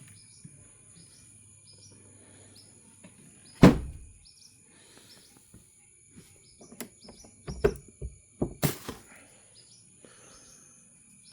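A bird chirps over and over, short high chirps about twice a second, against a steady insect drone. A single loud knock comes about three and a half seconds in, and a quick run of knocks and thuds near the end, from the boat's fittings being handled.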